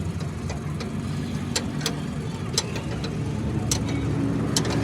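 An engine running steadily at idle, with a handful of sharp clicks or taps scattered over it.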